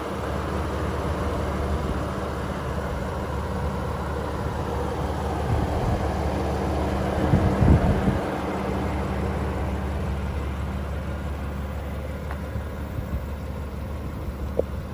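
BMW M4's twin-turbo straight-six idling steadily, with a brief louder low rumble about halfway through.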